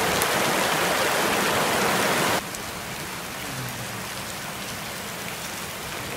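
Heavy rain pouring down in a steady hiss, dropping to a quieter rain hiss about two and a half seconds in.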